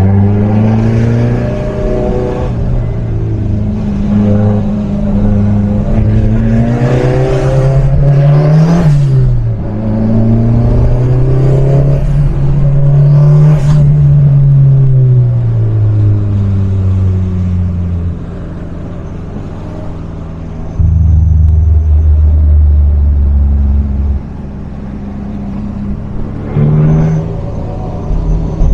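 Turbocharged Fiat Seicento engine being revved again and again, its pitch rising and falling, with a short sharp noise at the top of two of the revs near the middle. In the second half it settles for a few seconds into a steadier, lower drone before revving again near the end.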